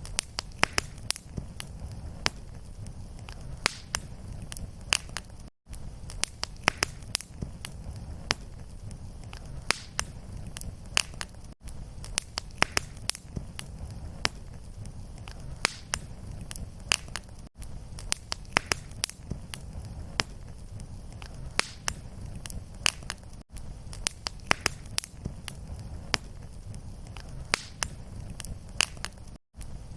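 Fireplace fire crackling: frequent sharp pops and snaps over a steady low rumble of flame. About every six seconds the sound drops out for an instant where the recording loops.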